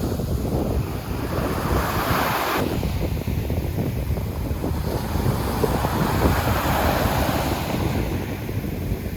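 Sea surf breaking and washing up the shore, rising in a hiss about two seconds in and again past the middle, under a steady rumble of wind buffeting the microphone.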